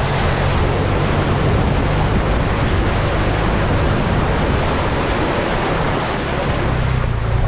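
Toyota Prado 120 four-wheel drive fording a creek: water rushing and splashing against the body and doors over the steady drone of its engine.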